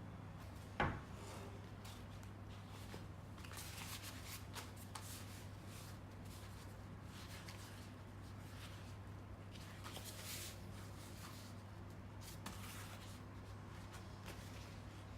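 Hands handling material and tools: soft rustling and rubbing, with one sharp knock about a second in, over a steady low hum.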